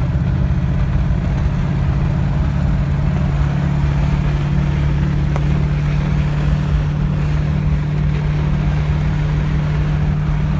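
1934 Ford heard from inside the cabin while cruising at about 40 mph: a steady low engine drone over a haze of wind and road noise.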